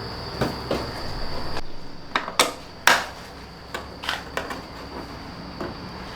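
Metal tools and small metal parts clinking and knocking in a scattered series of sharp clicks while a scooter is being taken apart.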